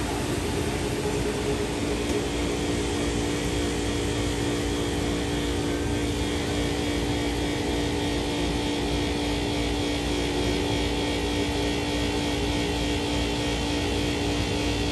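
Waterfalls of the Big Sioux River rushing steadily, an even wash of falling water with a faint steady hum beneath it.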